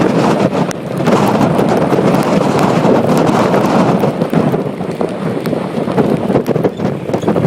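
Gusting tropical-storm wind buffeting the microphone in a loud, rushing roar that swells and eases, with many sharp ticks of rain striking it.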